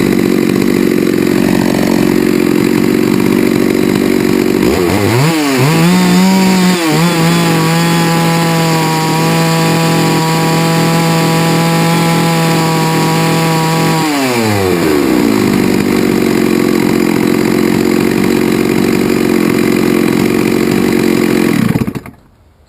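Chainsaw running at full throttle, cutting through a hard maple log. About five seconds in its pitch climbs to a higher, clear steady note, which drops back to the lower working sound after about nine seconds. The engine cuts off shortly before the end.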